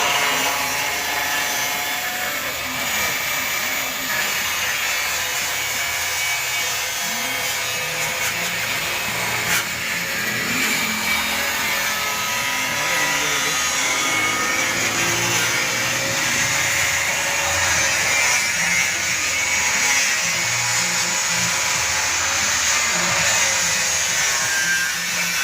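A power tool cutting: a steady grinding run with a faint wavering whine.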